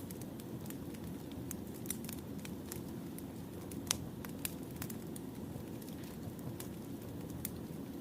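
Wood fire burning: a steady low rumble with scattered sharp crackles and pops of burning logs, the loudest pop a little before halfway.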